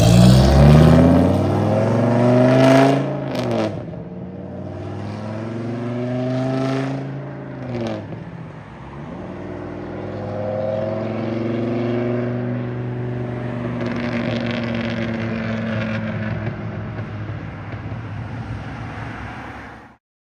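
Cars' engines accelerating away, revving up with a rising pitch that peaks around three seconds in, climbing again a few seconds later, then a steadier engine drone that slowly rises in pitch.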